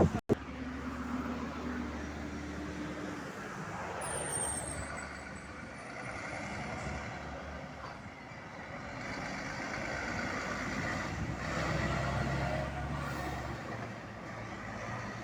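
A truck's engine running, with steady road traffic noise.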